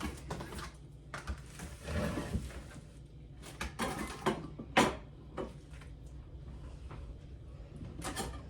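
Kitchen handling clatter: scattered knocks and clicks of things being picked up and set down, the sharpest about five seconds in.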